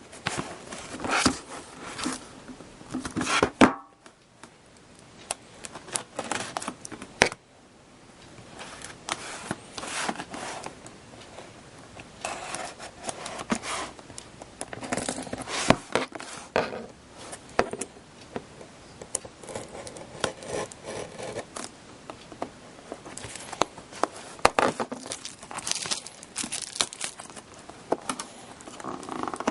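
Plastic shrink-wrap being torn and crinkled off a sealed trading-card box, in irregular rips and crackles with a quieter lull about four seconds in.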